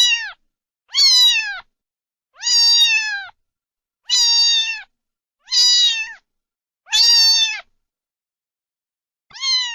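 Domestic cat meowing over and over, a new meow about every second and a half. Each meow is held briefly and slides down in pitch at its end.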